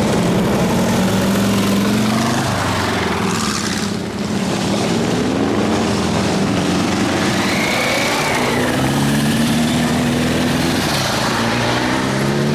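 Several motorcycle engines running as a parade of bikes rides past, their pitch rising and falling again and again as riders open and close the throttle.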